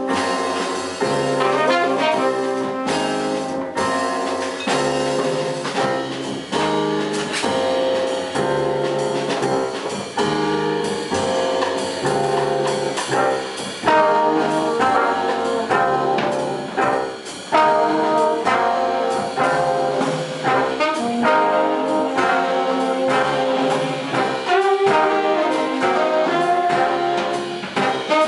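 Jazz big band playing at full volume: the trumpet, trombone and saxophone sections play together over a steady swinging rhythm from the drums and bass.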